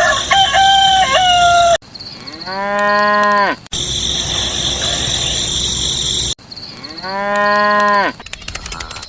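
A rooster crows once, then a cow moos twice, the two moos alike. Each sound starts and stops abruptly.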